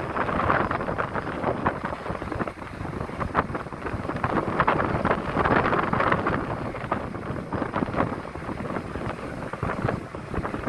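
Storm wind gusting over the microphone, a steady rush broken by quick irregular buffets.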